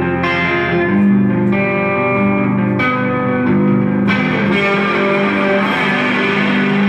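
Live band playing an instrumental passage: electric guitar chords held and changing every second or so through effects, turning into a denser distorted wash about four seconds in.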